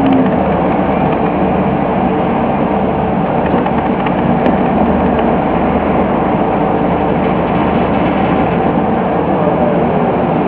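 Scania OmniCity bus's diesel engine running steadily, with a continuous mechanical rumble.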